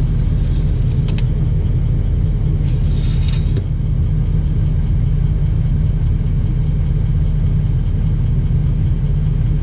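Steady low rumble of an idling vehicle engine, with a brief rustle or scrape about three seconds in.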